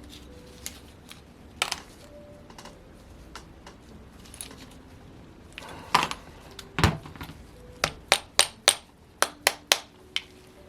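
Sharp metal clicks and taps from hand tools and parts during disassembly of a model engine. Two louder knocks come about six and seven seconds in, followed by a quick run of taps, some with a short ringing note, near the end.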